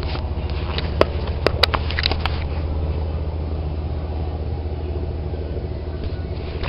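Low, steady rumble of a passing party boat's engine across the river, with a fast throb, and a few sharp clicks about a second or two in.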